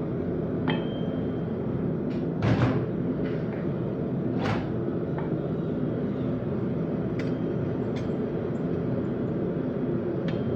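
Scattered, irregular metal clinks and knocks of blacksmithing tools on steel, one ringing briefly about a second in, over a steady droning hum.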